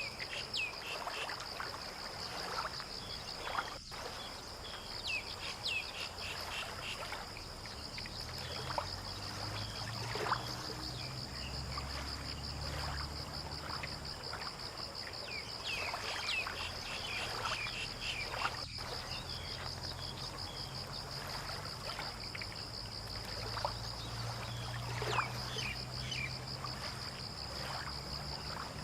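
Outdoor dawn ambience: a steady, high, rapidly pulsing insect trill with scattered bird chirps. A low motor drone, like a passing boat engine, comes in about eight seconds in and runs on underneath.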